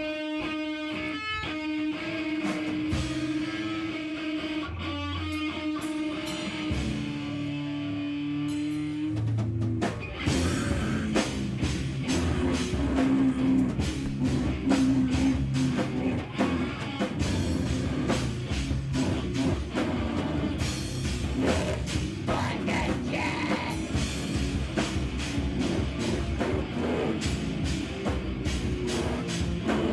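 Live band playing a loud heavy rock song: electric guitar holding sustained notes alone for about ten seconds, then the drum kit and full band come in, fast and driving.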